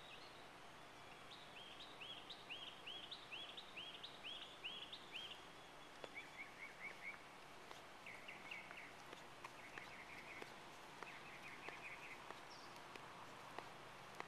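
Songbirds singing: a run of about nine clear, repeated slurred notes, roughly two a second, then several short, rapid trills, over a faint steady outdoor hiss.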